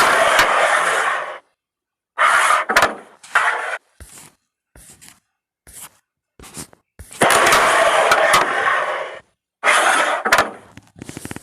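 Carrom game: the wooden striker is flicked with a sharp click, then the striker and carrom men slide and skid across the powdered board in a hissing scrape, with clacks as pieces hit each other and the rails. About five such shots come in quick succession, with single small clicks between them.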